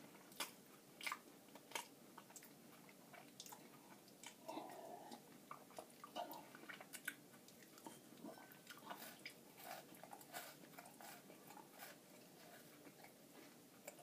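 Faint crunching and chewing of a Nature Valley granola bar: irregular crisp crackles, several a second.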